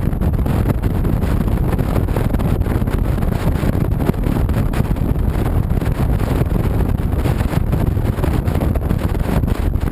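A 2007 Honda VTX 1300C's V-twin engine runs steadily under way, with wind buffeting the action camera's microphone.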